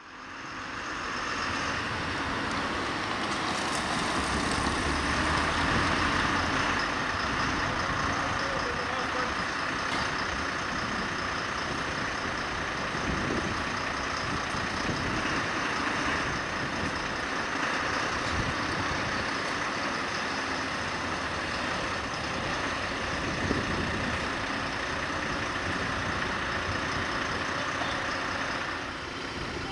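A fire engine's engine running steadily at the fire scene.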